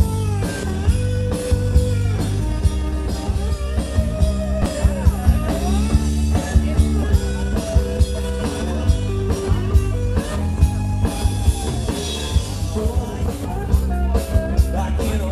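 Rock music: a lead guitar plays a bending melody over bass and a steady drum beat.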